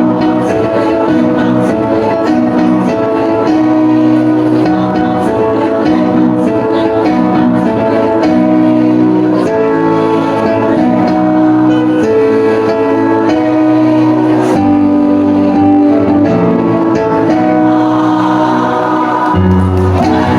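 A choir singing in held chords with instrumental accompaniment; a deeper bass note comes in near the end.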